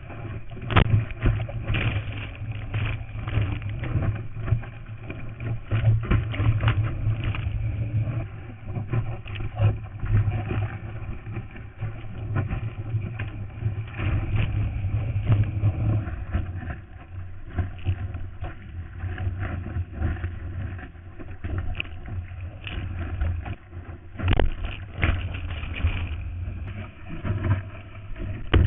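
Muffled surf noise heard through a waterproof action-camera housing: water rushing and splashing with wind buffeting, a constant deep rumble, and many irregular knocks and slaps against the housing.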